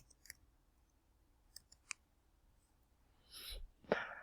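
A few faint, sharp clicks, then a short rustle and a louder scrape-like noise near the end.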